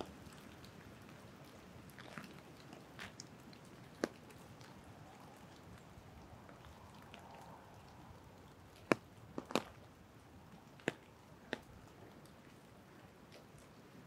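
Rain in woodland: a soft steady patter with scattered sharp drips falling from the trees at irregular intervals, most of them in the second half.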